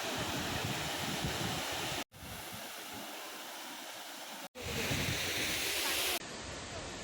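Waterfall roaring: a steady rush of falling water. It cuts off abruptly and changes level about two seconds in, again about four and a half seconds in, and once more near the end.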